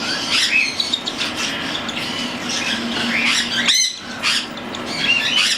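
Young cockatiels near weaning calling and squawking, a string of short high calls with one loud harsh squawk about four seconds in.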